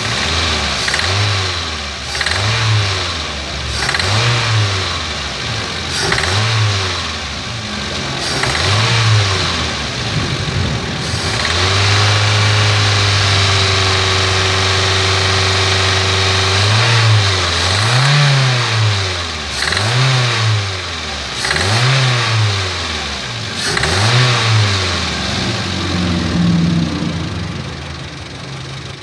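Toyota Avanza/Daihatsu Xenia four-cylinder petrol engine revved by hand at the throttle in a run of quick blips, with one held rise of about five seconds midway. Each snap of the throttle brings a rough clatter ("ngelatak"), which the mechanic suspects comes from poor combustion caused by a burnt cylinder head gasket leaking compression.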